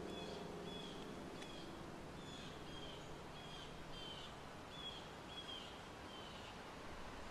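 A bird calling over and over, one short high chirp repeated a little under twice a second, over a faint steady outdoor hiss.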